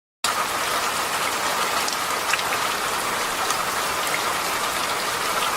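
Steady rain falling, an even hiss starting abruptly just after the start, with a few scattered sharp ticks.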